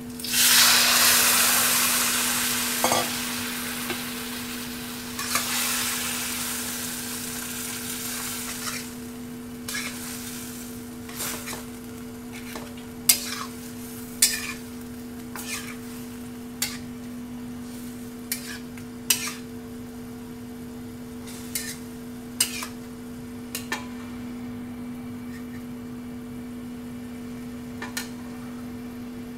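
Tomato-sauce mixture poured into hot oil and scrambled egg in a stainless steel wok, setting off a loud sizzle that fades over several seconds. A metal spatula then scrapes and clinks against the wok every second or two as the mixture is stirred, over a steady low hum.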